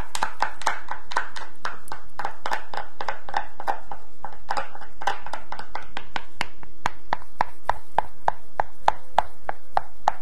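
Close-up ASMR tapping and clicking on an object near the microphone, steady and even at about four taps a second.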